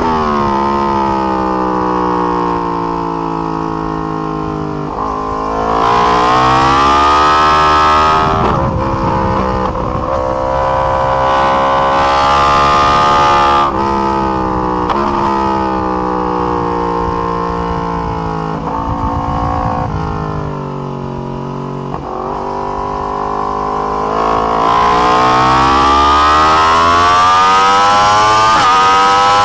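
A 2020 Yamaha R1's crossplane inline-four engine on track, revving through the gears. The pitch drops, climbs sharply about five seconds in, then falls over the middle in steps as the bike brakes and downshifts, and climbs again near the end under hard acceleration.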